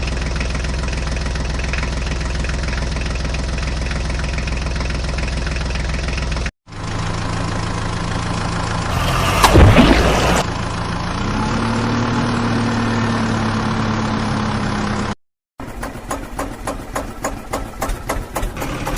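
Vehicle engine sounds in three abrupt sections. First an engine idles steadily. Then a second engine runs with a loud rushing burst partway through, and its note rises slightly soon after. Last comes a pulsing, faster engine run.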